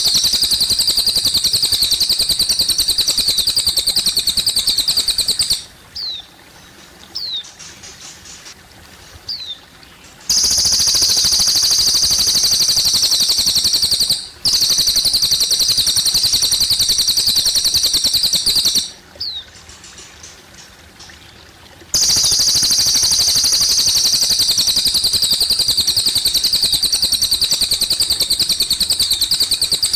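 Cililin bird singing a loud, very rapid high trill in long stretches of several seconds that stop abruptly, three times. In the gaps it gives single short downward-slurred chirps. Water trickles faintly underneath.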